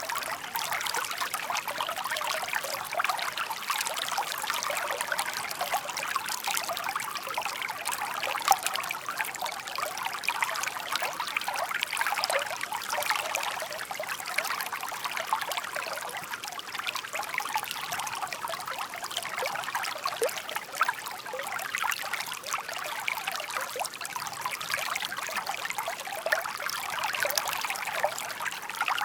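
Shallow stream babbling and trickling steadily, a dense patter of small splashes and gurgles with little low rumble.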